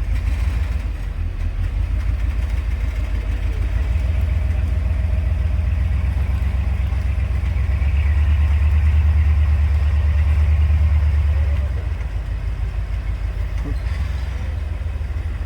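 Off-road vehicle's engine running at low revs, growing louder for a few seconds past the middle, then easing back.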